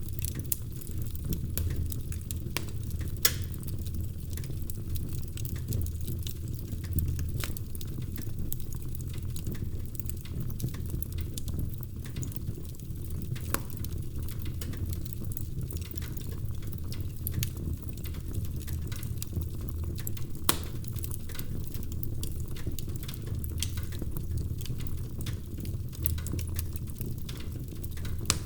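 Wood fire burning in a fireplace: a steady low rumble under constant irregular crackling, with a few louder pops.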